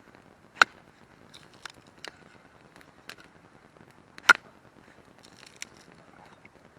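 Dry firewood cracking sharply twice, about four seconds apart, with smaller crackles and snaps between.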